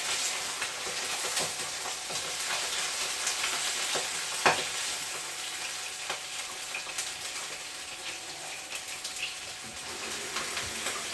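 Chicken frying skin-side down in hot oil in a frying pan: a steady sizzle with crackling, and one sharp click about four and a half seconds in.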